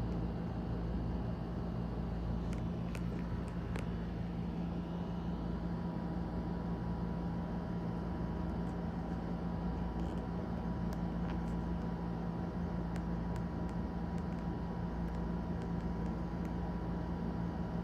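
A steady low mechanical hum with a faint constant whine, and a few faint, short high ticks or chirps scattered through it.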